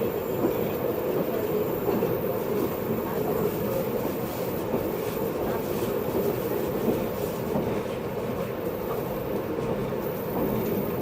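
Inside a JR East 583 series electric train's motor car running at steady speed: an even rumble of wheels on rail and running gear, with a few faint clicks of rail joints.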